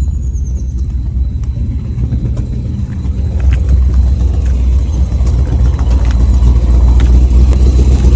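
Vehicle engine and road rumble while driving, getting louder about three and a half seconds in as it picks up speed.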